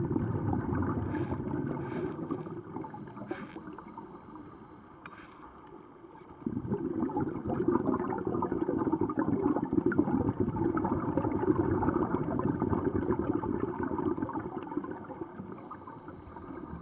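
Rushing, bubbling water noise that dips for a couple of seconds and swells louder again about six and a half seconds in, with a few faint clicks early on.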